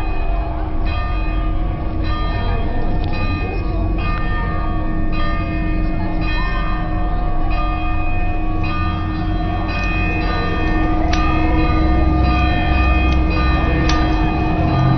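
A large church bell tolling, struck again and again with its ringing tones hanging on between strikes, over a steady low rumble.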